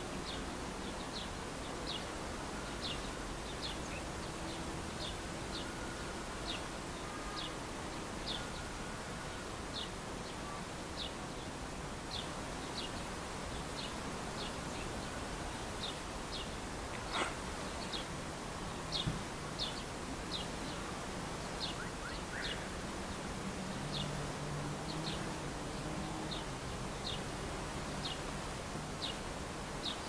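A songbird in the trees repeating a short, high, falling chirp about once a second, over steady outdoor background noise. About halfway through, a single longer call sweeps down from high to low.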